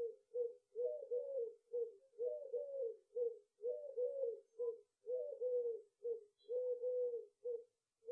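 Dove cooing: a steady run of short, low coos, about one or two a second, some bending up and down in pitch.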